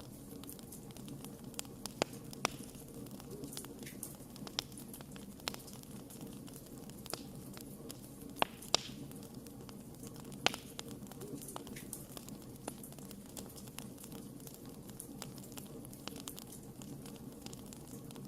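Wood fire burning with a steady low rumble and irregular crackles and pops, a few sharper snaps standing out about two seconds in, near the middle and about ten seconds in.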